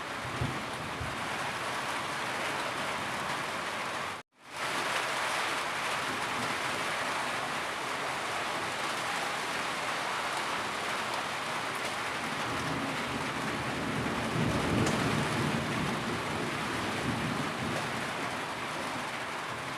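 Steady heavy rain pouring down in a continuous hiss. It cuts out for a split second about four seconds in, and grows briefly louder and deeper about fifteen seconds in.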